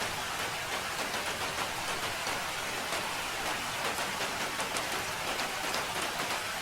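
Steady rain falling, with a dense hiss and many small drops pattering on a surface.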